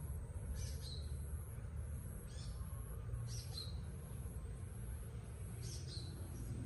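A bird calling: four short, high chirps, each dropping in pitch, spaced a second or more apart, over a steady low rumble.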